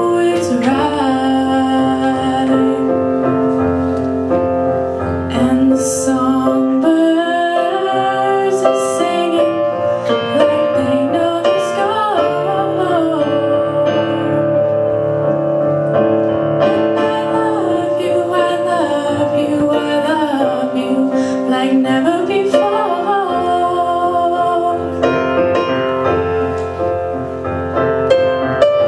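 Piano playing a slow song, with a female voice singing a wavering, gliding melody over the chords.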